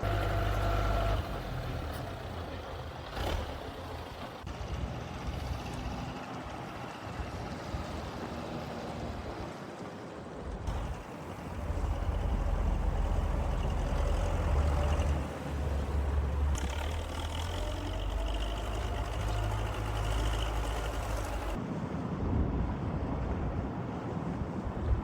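Engines of heavy trucks and street traffic running with a deep rumble. The sound changes abruptly three times, about 10, 16 and 21 seconds in, as the shot changes.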